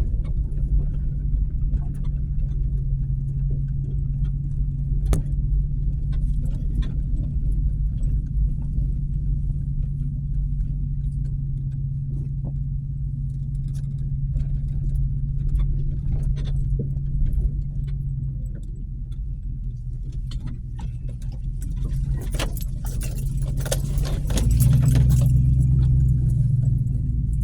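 Pickup truck engine running while driving, heard from inside the cab, a steady low hum with light rattles and clicks. The engine note goes up and gets louder for a couple of seconds near the end.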